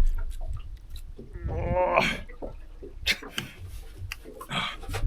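A man grunting and straining while fighting a fish on a jigging rod, with one short wavering groan about a second in, scattered clicks and knocks of tackle handling, and a low rumble underneath.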